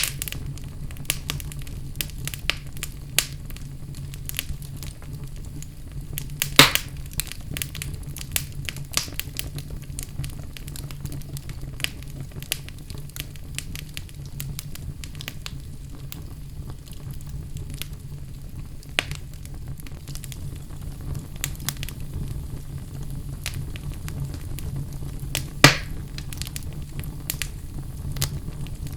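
Wood fire burning in a fireplace: a steady low rumble of flames with frequent small crackles and two louder pops, one early on and one near the end.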